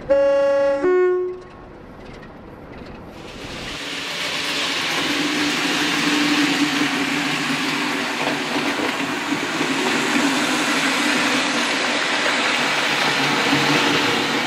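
A train horn sounds two notes, lasting about a second in all. From about four seconds in, a passing train's rushing, rumbling noise builds and then runs loud and steady.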